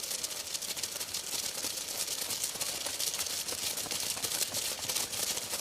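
Heavy rain falling steadily: a dense, even patter of countless drops hitting the ground and nearby surfaces.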